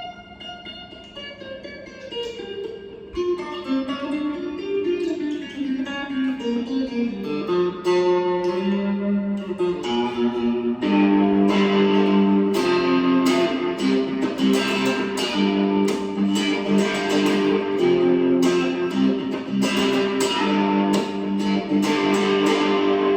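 Homemade electric cigar box guitar played through an amplifier: softer picked notes at first, then louder, fuller chords played in a repeating pattern from about halfway through.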